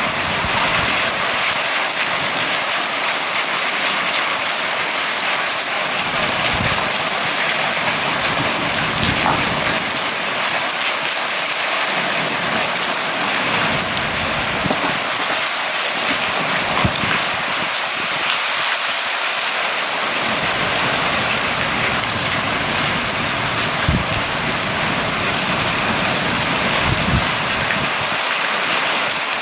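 Heavy rain falling steadily in a thunderstorm, an even hiss, with a low rumble that comes and goes underneath.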